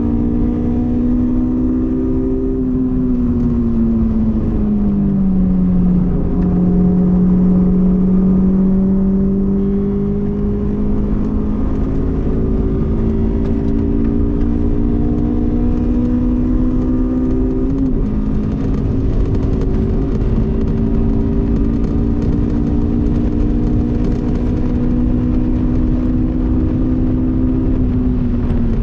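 Honda S2000's four-cylinder engine running at high revs on a race track. Its pitch falls a few seconds in, holds, then slowly climbs with a brief jump partway through, and falls again near the end.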